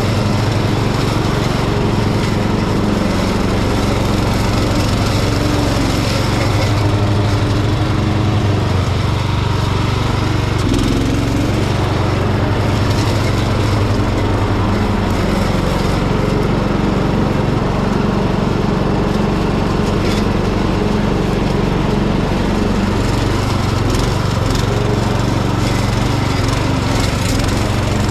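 Hecht garden tractor's engine running steadily while it mows thick overgrown grass with its mower deck. The engine note dips briefly a couple of times, around the middle and again later, as the cut loads it.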